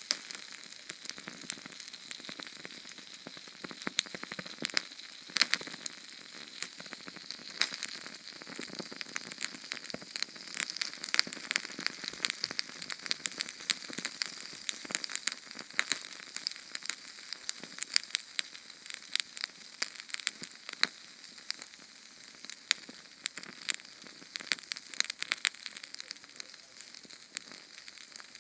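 Small Sterno canned-fuel flame burning: a steady hiss with dense, irregular crackles and pops.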